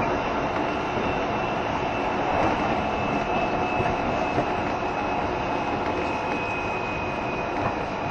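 JR Shikoku 7200 series electric train running along the line, with a steady rumble of wheels and running gear. A faint high whine sinks slowly in pitch.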